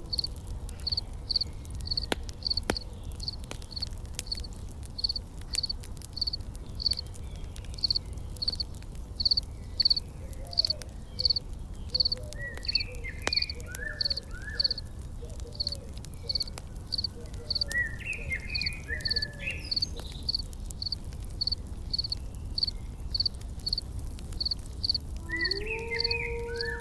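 An insect chirping steadily in short, even pulses about twice a second. A few short bird calls come in the middle, and a campfire crackles faintly over a low rumble.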